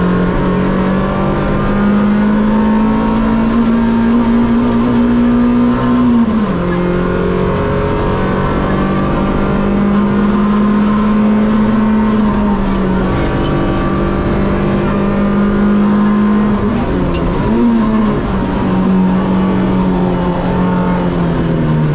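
Rally car engine at stage pace, heard from inside the cabin. Its note climbs slowly for about six seconds, then drops sharply, holds steady, wavers briefly around seventeen seconds and sinks near the end.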